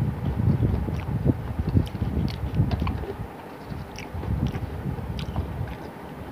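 A person chewing food close to the microphone: irregular soft thuds with scattered small mouth clicks.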